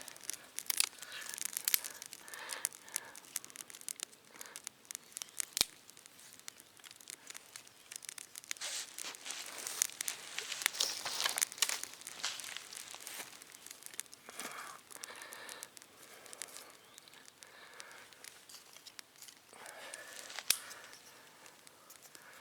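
Dry birch bark being torn and crumpled by hand to fluff it for tinder, with irregular crackles and a couple of sharper snaps.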